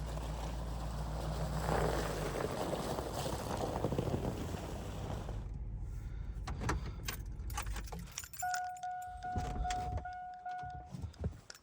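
Pickup truck engine running low and steady, then dying away about two seconds in as the truck stops. Later come small clicks and rattles, and a steady electronic tone lasting about two and a half seconds near the end.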